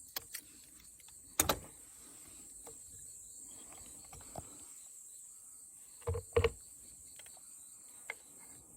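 A few sharp knocks and clicks of hard objects being handled and set down, loudest about a second and a half in and again as a quick pair about six seconds in, over a faint steady high hiss.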